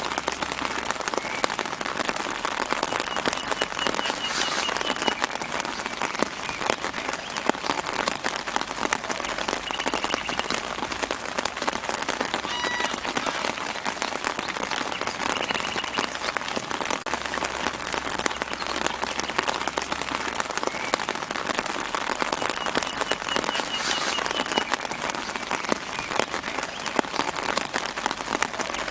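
Steady light rain pattering on leaves, a dense hiss of fine drop ticks. A bird's short trill sounds now and then in the background, and a brief pitched call comes about midway.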